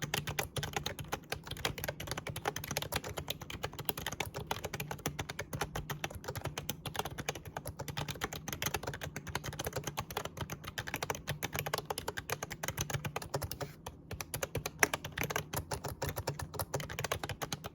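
Actto retro mini Bluetooth membrane keyboard, with round typewriter-style keys, typed on fast and continuously: a dense, uneven patter of soft key clicks, with one harder key strike about 15 seconds in.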